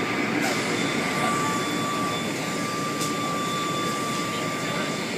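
Car wash machinery running: a steady rushing noise with a steady high whine running through it.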